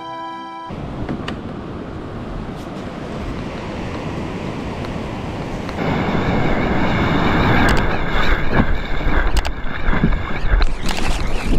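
Wind buffeting the microphone and sea water washing around a kayak on the open ocean, getting louder and gustier about halfway through.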